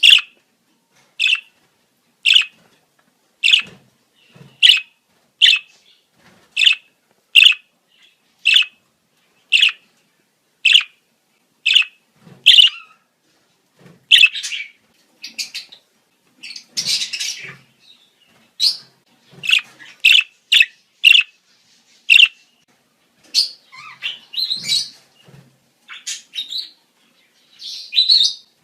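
Budgerigar calls: short, sharp chirps about once a second for the first half, then quicker, more varied chirps and warbling chatter. These are budgie breeding-season calls.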